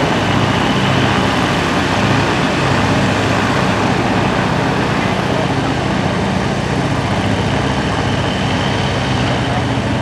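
Nine-cylinder radial engines of a Navy SNJ and Yak-52 trainers idling together on the ground, a steady low drone.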